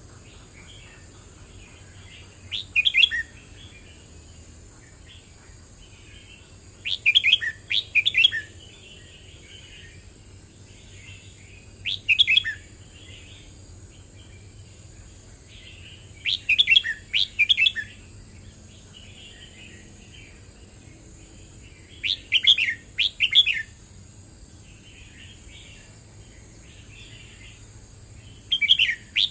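Red-whiskered bulbul singing: short, loud warbling phrases about every five seconds, with softer twittering between them.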